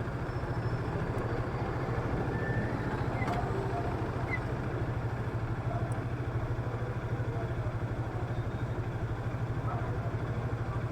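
Motorcycle engine running steadily with an even low pulse, holding one speed with no revving.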